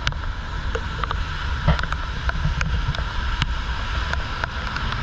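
Typhoon rain falling steadily, with scattered sharp ticks of drops hitting close to the microphone over a low rumble of wind.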